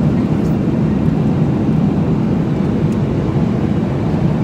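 Steady, low cabin noise of an airliner in flight: the drone of the engines and rushing air, even and unchanging throughout.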